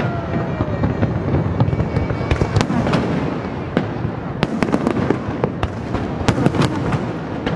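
Aerial fireworks display: a dense, continuous rumble of shell bursts overlaid with many sharp cracks and bangs at irregular intervals.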